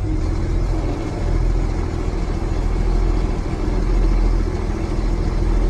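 Engine of a 1989 International truck loaded with potatoes, running steadily, heard from inside the cab as a continuous low drone.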